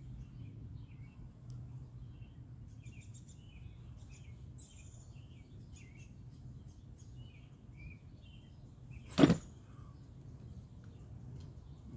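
Small birds chirping in many short, quick calls over a faint low steady hum, with one loud brief thump about nine seconds in.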